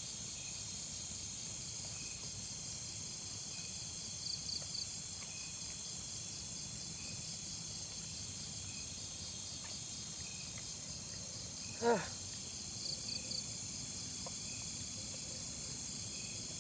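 Steady chorus of crickets and other insects, a continuous high-pitched pulsing trill, with a few short chirps. About twelve seconds in, one brief sound falls quickly in pitch.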